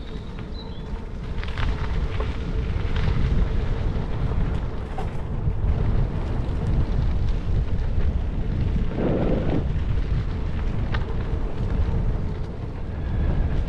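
Bicycle tyres rolling over gravel with a steady low rumble of wind buffeting a helmet-mounted action-camera microphone, a few light clicks, and a brief louder rattle about nine seconds in.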